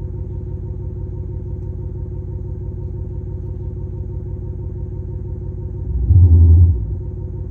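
Muffler speaker on a Toyota Prius PHV playing a synthetic engine idle, a steady low rumble, with one short, much louder low surge about six seconds in.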